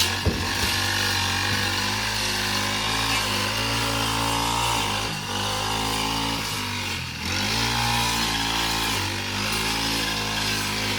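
A small engine running steadily, its speed sagging briefly twice, about five and seven seconds in, as if under load. There are a couple of sharp knocks right at the start.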